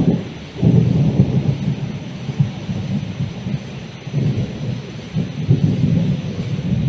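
Thunder rumbling over steady heavy rain: the rumble breaks in suddenly at the start and rolls on in waves, loudest about a second in, with the rain's even hiss underneath.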